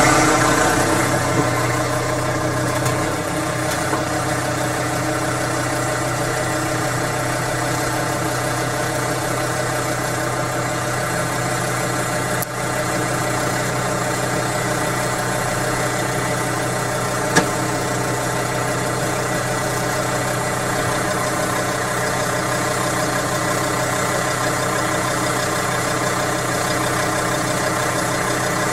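SUV engine idling steadily close by, with one sharp click about halfway through.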